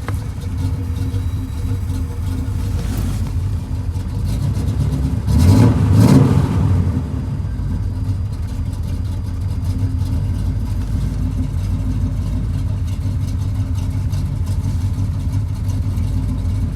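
Cammed 305 small-block Chevy V8 idling, revved up briefly about five seconds in and settling back to idle. It is still running rough at idle with the random misfire the owner has been chasing.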